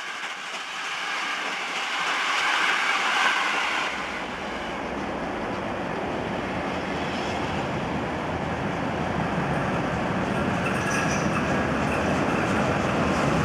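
Passenger coaches rolling past close by, their wheels clattering over the rails. The sound changes abruptly about four seconds in to a steady rail rumble from the steam-hauled train approaching along the platform, which grows slowly louder.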